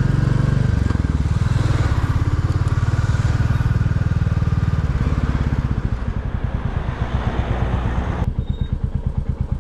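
Royal Enfield Classic 350's single-cylinder engine running under way with wind noise. About five seconds in, the engine drops to a slower, evenly pulsing beat, and the wind noise cuts out near the end as it settles to a low idle.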